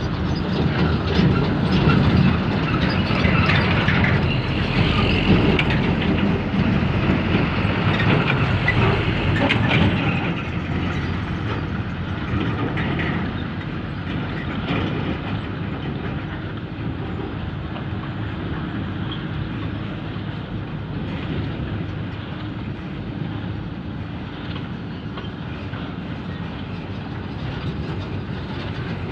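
Tracked heavy machinery on the move: steel crawler tracks clanking and rattling over a diesel engine's steady running. It is loudest for the first ten seconds or so, then carries on a little quieter and steadier.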